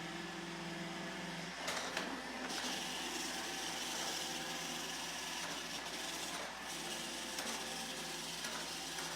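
iRobot Roomba E5 robot vacuum running: a steady motor whir and hiss from its suction and brushes. Its hum changes about a second and a half in, and a few sharp clicks and knocks come through as it moves about.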